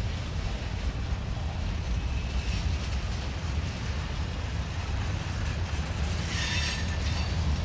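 Freight cars of a slow-rolling train passing close by: a steady low rumble of steel wheels on the rails, with a brief high squeal about six seconds in.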